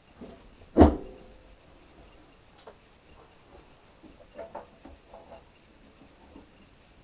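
A single sharp knock, like something hard set down or struck, a little under a second in, followed by faint light clicks and rustling.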